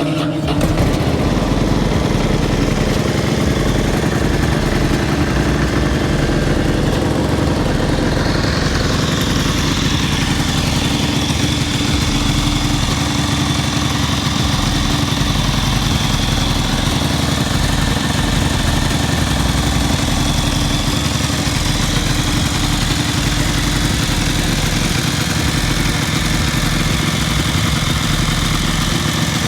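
Ducati Monster S2R 800's air-cooled L-twin engine idling steadily on a cold start through its stock exhaust, with a high whine that drops in pitch about eight to twelve seconds in and then holds. The engine has extra mechanical noise, which the owner puts down to a timing bearing that needs changing.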